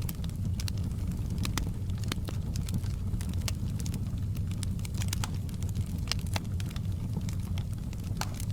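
Wood fire burning in a fireplace: a low steady rumble of the flames with frequent irregular sharp crackles and pops from the logs.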